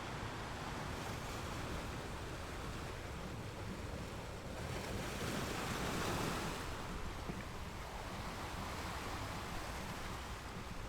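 Ocean waves breaking on a beach, a steady wash of surf with one wave swelling louder about halfway through, then falling back.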